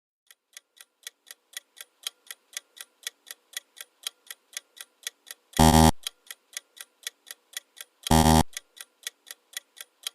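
Clock-ticking countdown sound effect, about four ticks a second, cut across twice by a short, loud, harsh honk, about five and a half and eight seconds in.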